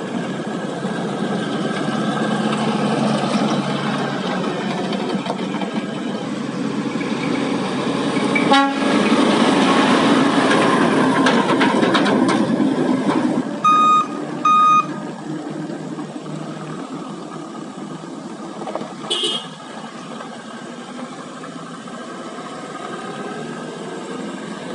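Heavy haul truck diesel engines running, with one truck growing louder as it passes about a third of the way in. Two short beeps sound close together roughly halfway through.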